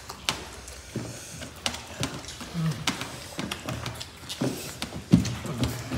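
Close-up eating sounds: chewing and crunching, with many short crisp clicks as raw long beans are bitten and chewed, and a few brief low hums from the eaters.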